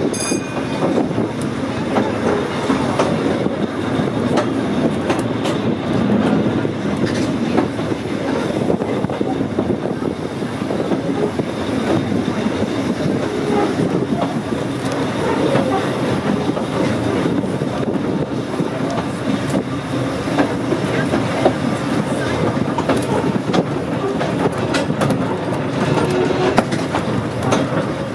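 Volk's Electric Railway car running along the track, heard from on board the open-sided car: a steady rumble of wheels on rails with scattered clicks over the rail joints.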